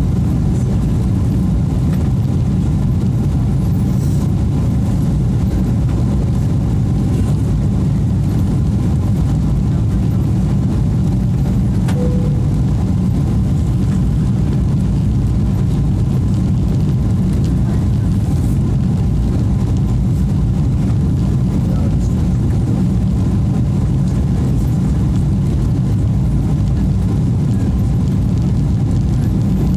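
Steady low rumble inside the passenger cabin of a Boeing 777-300: engine and airflow noise, even in level throughout.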